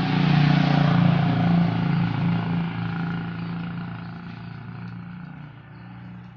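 A motor vehicle's engine passing close by, loudest near the start and fading away over several seconds.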